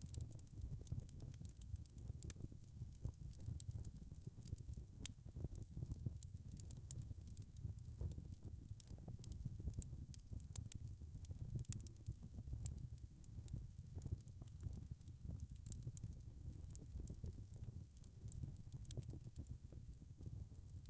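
Wood fire crackling: frequent sharp crackles and pops over a steady low rumble.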